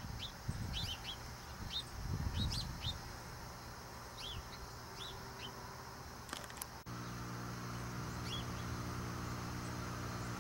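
Small birds chirping, many short quick calls over a low rumble. About seven seconds in, the background changes abruptly to a steady low hum, and one more chirp follows.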